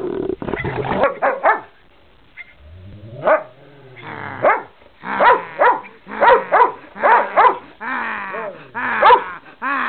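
A dog barking repeatedly, about ten short barks that start about three seconds in, some of them with a rising or falling whine.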